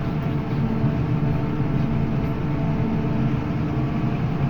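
Vehicle engine running at a steady speed while driving, with an even drone that does not change.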